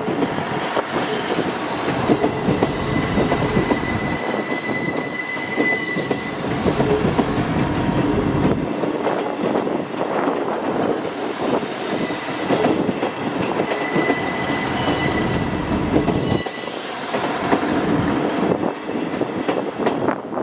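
A train running past over the level crossing, with continuous wheel and rail noise and high wheel squeal that comes and goes.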